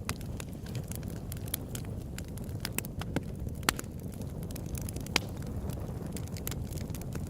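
Open-air wood campfire burning with a steady low rumble and irregular sharp crackles and pops, a few louder snaps standing out.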